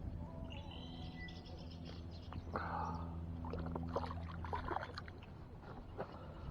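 Birds chirping over a steady low hum, with a cluster of short clicks and rustles in the middle.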